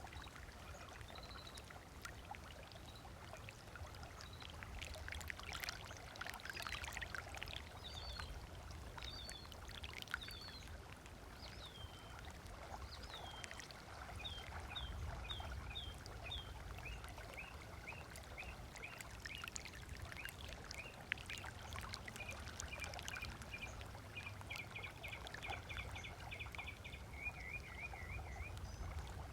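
Small waves lapping and splashing on a sandy lakeshore, with birds calling over it: scattered chirps, then quick runs of repeated notes in the middle and a short trill near the end.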